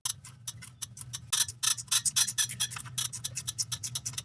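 Ratcheting wrench clicking quickly and steadily, about nine clicks a second, as an exhaust manifold bolt is turned, over a steady low hum.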